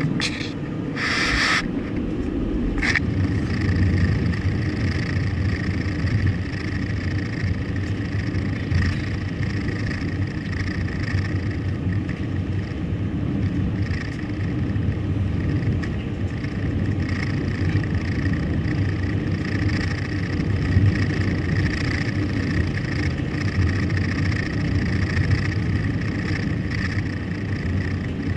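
A car driving, with a steady rumble of engine and road noise. A few short noises cut through in the first three seconds.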